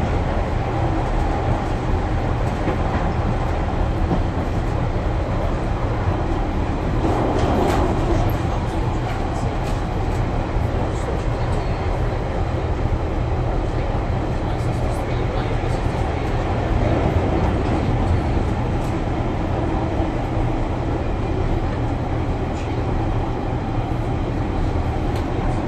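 Class 142 Pacer diesel railbus heard from inside the passenger saloon while running: a steady low rumble of the underfloor engine and wheels on the rails, with occasional faint clicks.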